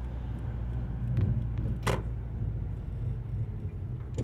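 Steady low drone of engine and road noise heard from inside a moving Subaru WRX STI, with one sharp click about two seconds in.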